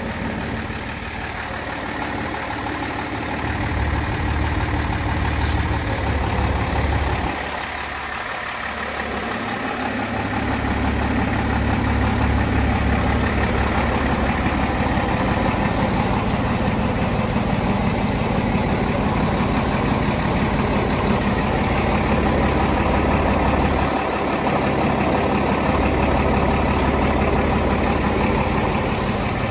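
1959 Farmall 560 tractor's six-cylinder engine running steadily at idle. Its level dips for a couple of seconds about eight seconds in.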